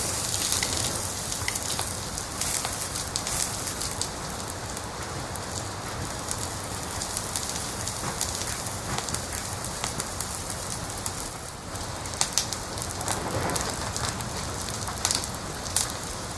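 Wood fire crackling: a steady hiss with many small snaps and a few louder pops.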